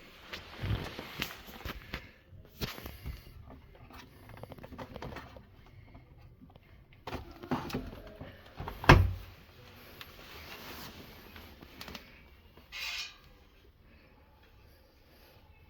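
A series of irregular clicks and knocks, with one sharp, loud knock about nine seconds in.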